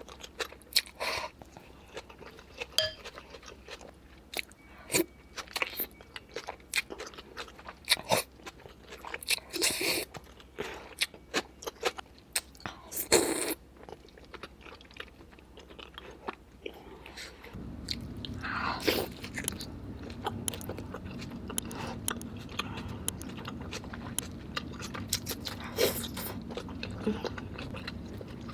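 Close-up eating of spicy king crab: irregular sharp cracks and crunches of shell, with biting and chewing. A steady low hum comes in about two-thirds of the way through.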